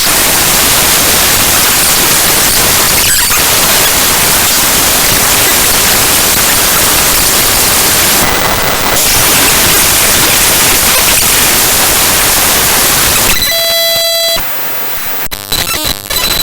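Loud, harsh static-like noise: the binary data of the Windows kernel file ntoskrnl.exe played back as raw audio. About 13 seconds in it turns quieter and buzzy, with steady high tones and rapid stuttering.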